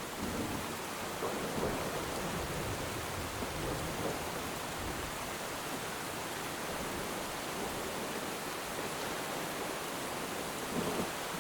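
Steady rain falling, with a low rumble of thunder through the first five seconds or so.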